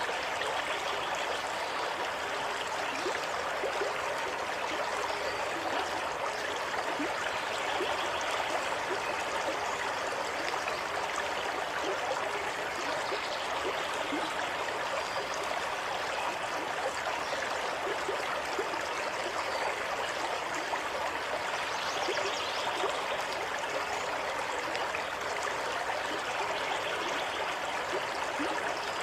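Water running steadily over stones in a stream, an even trickling and babbling with small splashes.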